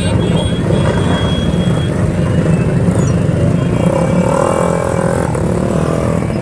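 Motorcycle engines running together in a group ride: a loud, steady rumble. About four seconds in, a pitched sound wavers briefly over it.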